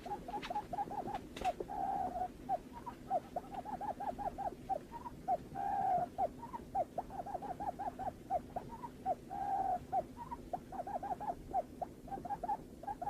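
Barred buttonquail calls: a rapid series of short, low hooting notes, about six a second, broken three times by a longer drawn note. This is played as a lure call to draw the birds in.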